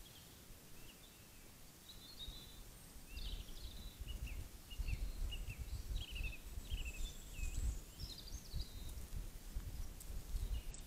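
A bird singing a run of short, varied chirping notes, over a low, uneven rumble.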